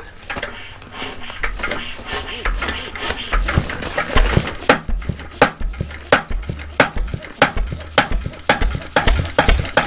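Vintage CE McDonald 'Super Diesel' engine starting up. Metallic scraping and clatter give way, a few seconds in, to slow, regular heavy firing knocks, about one and a half a second, that grow stronger as the engine picks up.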